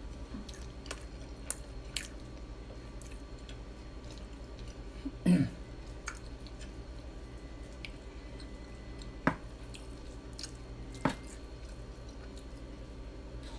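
Close-miked chewing of a mouthful of soft rice, with soft wet mouth clicks throughout. A louder wet sound comes about five seconds in, and sharp single clicks come twice later on.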